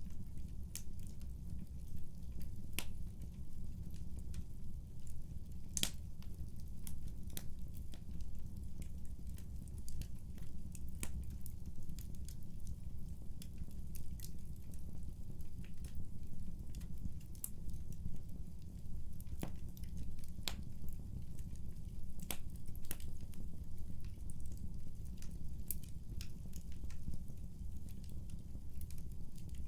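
Fire burning in a fireplace: a steady low rumble of flames with frequent, irregular sharp crackles and pops. A few louder snaps stand out, the strongest about six seconds in.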